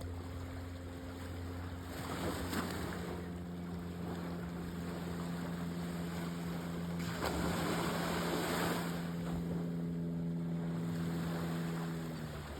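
Surf washing up on a sandy beach, swelling about two seconds in and again around seven to nine seconds, over a steady motor drone that stops near the end.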